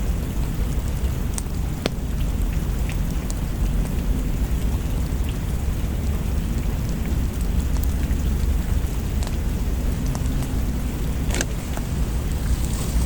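Steady rain with a deep low rumble underneath, mixed with a fireplace; scattered sharp crackles or drips stand out, a few together about three-quarters of the way through.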